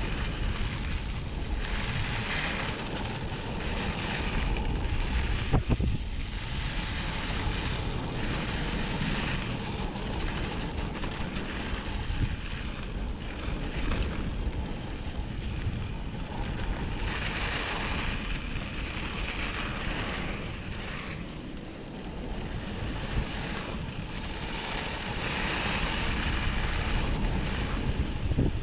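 Mountain bike tyres rolling over a smooth dirt trail: a steady rumble with a hiss that swells and fades every few seconds, and one sharp knock about six seconds in.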